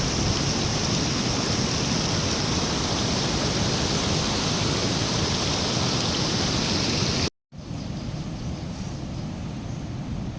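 Steady rushing water. About seven seconds in it cuts off sharply, and after a split second of silence a quieter, duller rushing noise follows.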